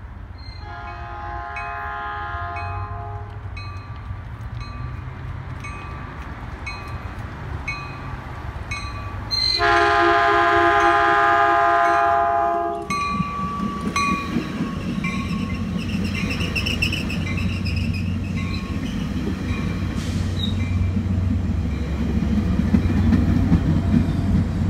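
Caltrain commuter train, a Bombardier bi-level cab car leading with an EMD F40PH-2C diesel pushing at the rear, sounding its horn as it approaches: a short blast, then about ten seconds in a longer, louder one. The bi-level cars then roll past with wheel and rail noise over a low diesel rumble, while a bell dings at a steady pace throughout.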